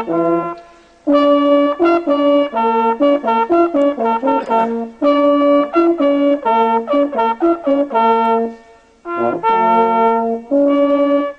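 Music played on brass instruments: a melody of short and held notes, with two short breaks, about a second in and again near nine seconds.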